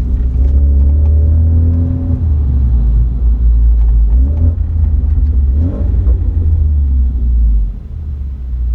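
BMW B48 2.0-litre turbocharged four-cylinder engine and exhaust under way, a deep rumble whose pitch rises and falls as the revs change. The sound dips briefly near the end, then picks up again.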